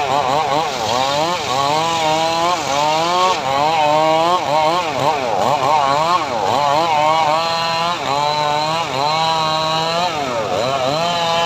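Engine of a homemade srekel sawmill running under load while sawing sengon wood, its pitch dipping and rising again every second or so as the cut loads it.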